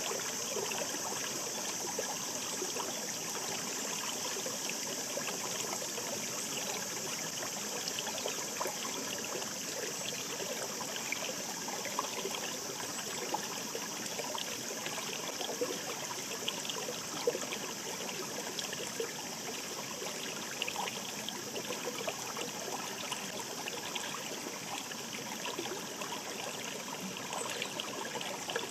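Shallow stream babbling over stones: a steady rush of running water with many small splashes and trickles through it.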